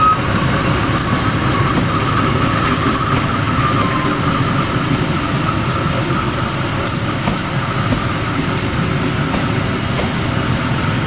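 Passenger train coaches rolling past on the track: a steady, loud rumble of steel wheels on rail, with a high whine running through it.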